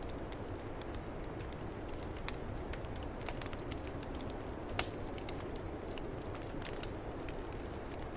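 Wood fire in a fireplace crackling, with scattered small pops and one louder pop a little before five seconds in, over a steady low rumble of snowstorm wind.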